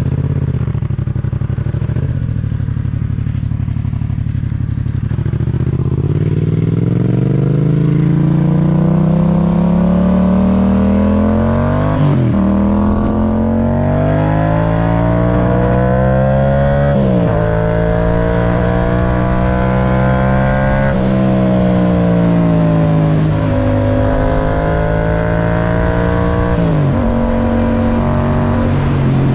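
Yamaha MT-07's parallel-twin engine through an Akrapovic titanium exhaust, running at low revs at first, then climbing steadily in pitch under throttle. The note drops suddenly about twelve and seventeen seconds in, as with upshifts, then eases off and pulls up again several times.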